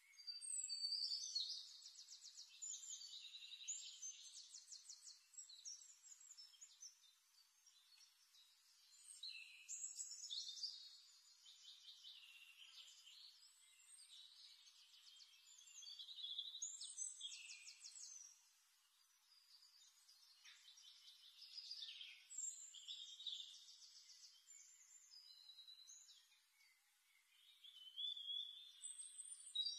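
Faint high-pitched bird song: rapid trilled phrases a few seconds long, returning about every six seconds.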